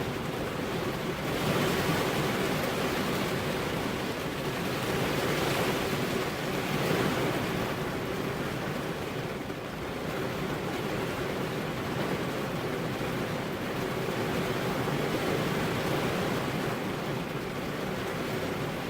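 Steady rain falling on a car's windows: a continuous hiss that swells louder for a while about two seconds in and again around six seconds in.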